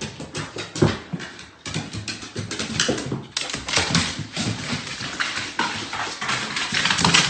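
A small dog's paws and claws tapping and thudding on hardwood stairs as it hops down them, in quick, irregular steps.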